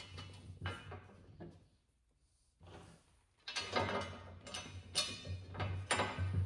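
Metal hardware being handled while a plow blade attachment is bolted on: irregular clinks, knocks and scrapes of bolts, nuts and brackets, busier and louder in the second half, over a steady low hum.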